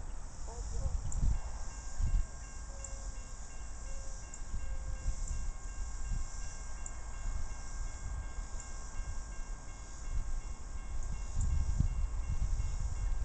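Distant diesel locomotive of an approaching train: a low rumble that swells and fades, with a steady whine of several tones setting in about a second in.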